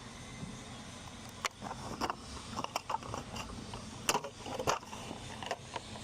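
Irregular metallic clicks and knocks of hand tools working on a skid loader's bolts and fittings, the sharpest about four and four and a half seconds in.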